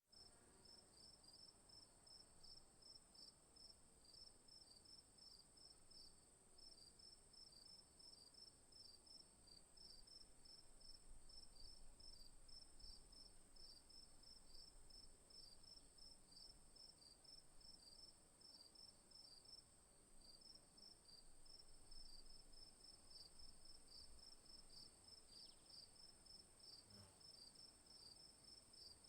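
Faint insects chirping: a steady high-pitched trill with a regular chirping over it, several chirps a second.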